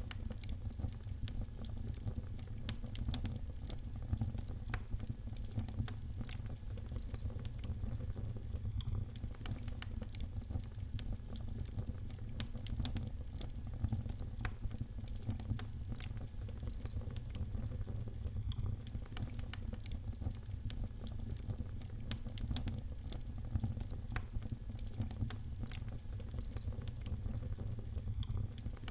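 Wood fire in a fireplace crackling, with frequent small irregular pops over a steady low rumble.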